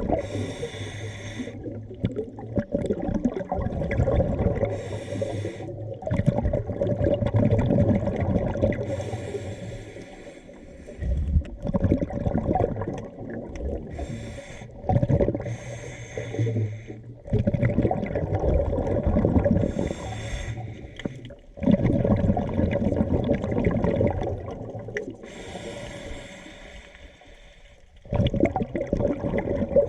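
A scuba diver breathing underwater through a regulator: a short hiss with each inhalation, then a long rumbling rush of exhaled bubbles, repeating about every four to six seconds.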